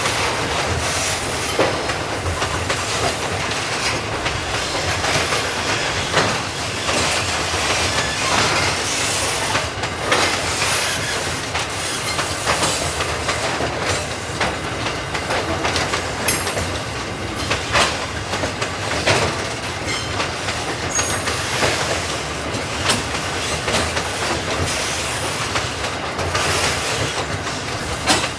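Aurizon ballast train's wagons rolling past on narrow-gauge track: a steady clatter of wheels clacking over the rails, with a few brief high wheel squeals partway through.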